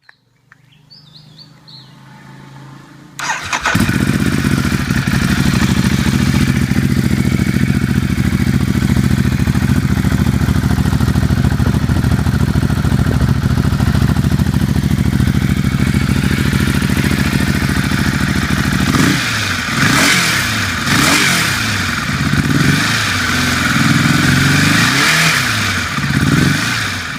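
Ducati Hypermotard 821's L-twin engine starting about three seconds in and idling steadily. From about nineteen seconds in it is revved in repeated rising and falling blips.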